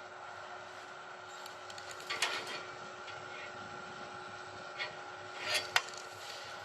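Steady machine hum with a few faint held tones, broken by short scrapes and clicks: a brief cluster about two seconds in, a single click later, and a scrape ending in a sharp click near the end, the loudest sound.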